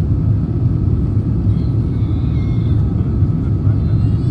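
Steady low rumble of an Airbus A350-1000 in flight, heard inside the passenger cabin: engine and airflow noise from its Rolls-Royce Trent XWB engines.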